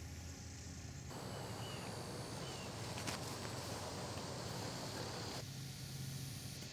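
Outdoor ambience with a steady insect drone. About a second in, a stretch of even rushing noise begins, and it cuts off abruptly near the end. One sharp click comes about halfway through.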